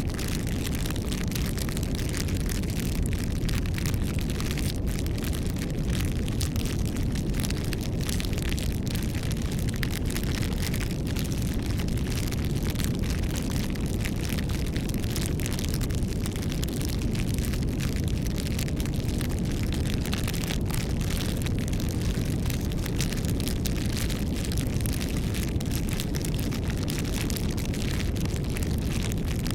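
Bonfire burning: a steady low rumble of flames with frequent small crackles and pops throughout.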